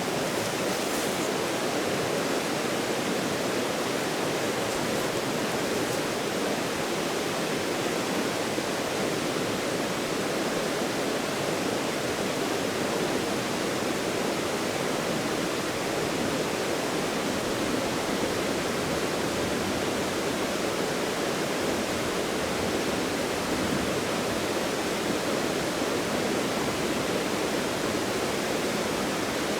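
Steady rush of a fast-flowing stream, an even unbroken noise with no single events in it.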